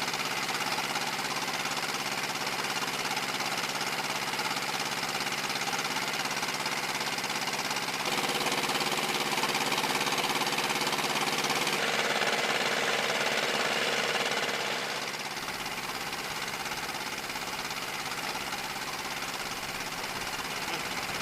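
A small fishing boat's engine running steadily with a knocking beat. It gets louder about eight seconds in and drops back a little before fifteen seconds in.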